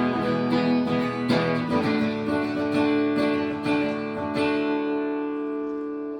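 Guitar strumming the closing chords of a song, with the last chord struck a little past four seconds in and left ringing as it fades.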